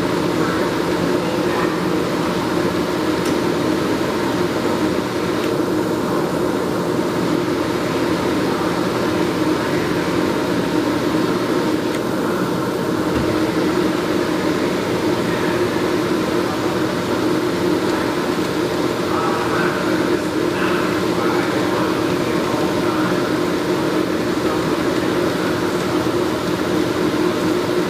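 A 1955 LeBlond #2 heavy engine lathe running under power, a steady mechanical hum that holds one pitch throughout.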